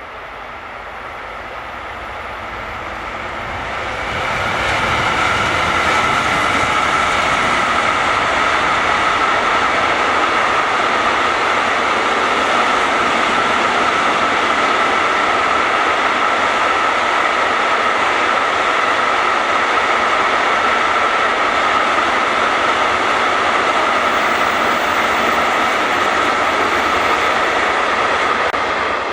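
A train passing close by at speed: the rolling noise builds over the first four seconds, then holds loud and steady, with a steady high-pitched whine from the wheels running on top.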